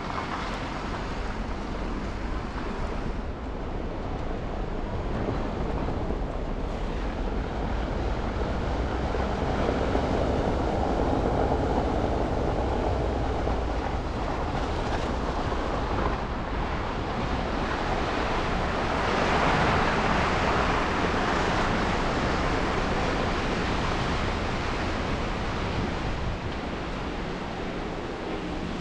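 City traffic noise heard on a drive through snowy streets: a steady wash of tyre and engine noise from the car and passing vehicles. It swells through the middle, is loudest about two-thirds through, then eases a little.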